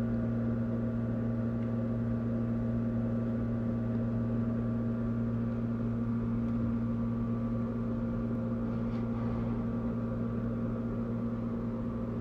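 Washing machine running with a steady electric-motor hum.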